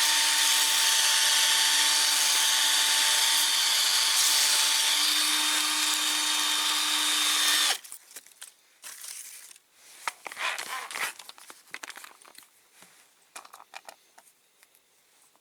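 Cordless drill spinning a small metal model axle against sandpaper: a steady motor whine with the rasp of the paper, its battery going flat. The drill cuts off suddenly about halfway through, leaving faint scraping and light handling clicks.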